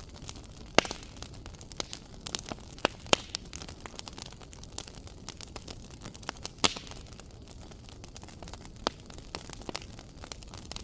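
Wood fire crackling in a fireplace: irregular sharp pops and snaps over a soft steady hiss, with a few louder pops about a second in, around three seconds and past the middle.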